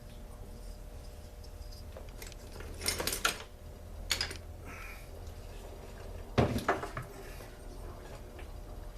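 Metal tools and small chainsaw parts clinking and clattering on a workbench during disassembly: a few separate clanks, the loudest about two-thirds of the way in, over a steady low hum.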